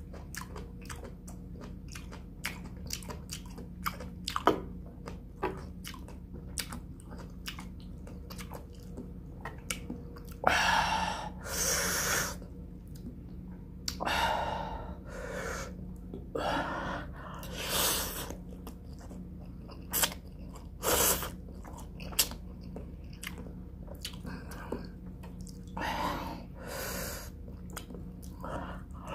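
A person chewing food close to the microphone: many small wet clicks and smacks for the first ten seconds or so, then several longer, louder noisy mouth sounds spaced a few seconds apart.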